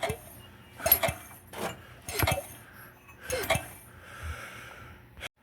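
Metal tools and engine parts clinking and knocking, about six short irregular strikes with a brief ring.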